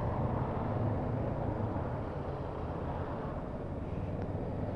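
Motorcycle engine running steadily at low speed, with wind and road noise, heard from on the moving bike.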